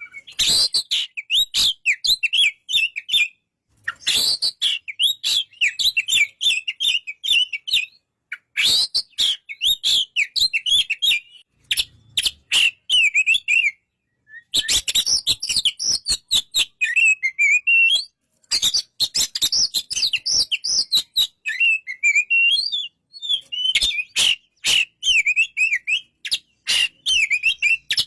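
Oriental magpie-robin (kacer) singing: phrases of a few seconds of rapid, varied chirps and sharp clicking notes, broken by short pauses.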